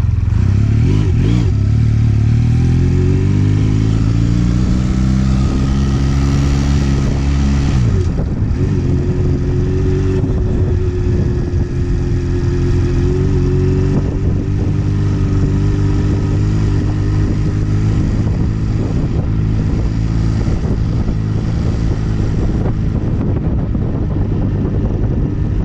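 Motorcycle engine under way: its pitch climbs for about eight seconds as it accelerates, drops sharply as it shifts up a gear, then holds a fairly steady cruising note.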